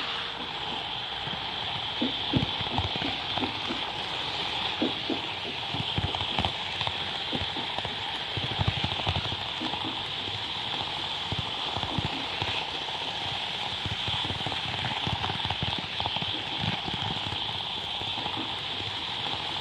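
N-scale model train running on layout track: a steady high hum under many irregular small clicks and clacks.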